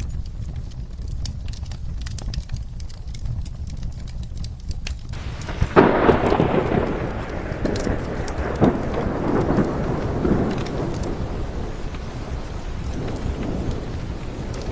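Steady rain with scattered fireplace crackles. About six seconds in, a thunderclap cracks and rumbles away over several seconds.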